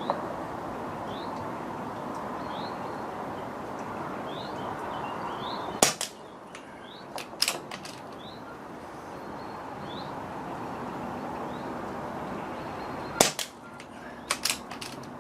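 Two shots from a .177 air rifle, about seven seconds apart, each followed by a few lighter clicks, over steady wind noise.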